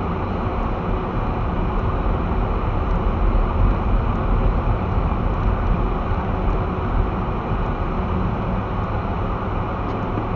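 Steady low rumble of an all-wheel-drive car driving slowly on snow-covered streets: engine and tyre noise, even throughout with no sudden events.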